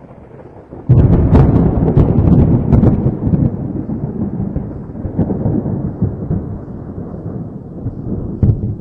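A thunderclap: a sudden loud crack about a second in, crackling for a couple of seconds, then a long rolling rumble of thunder that slowly dies away.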